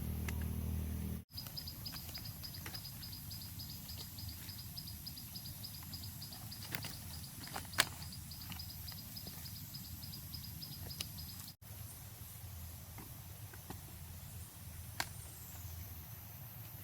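Outdoor ambience with a low rumble and scattered light clicks. For several seconds a short high chirp repeats steadily, about four times a second, then stops.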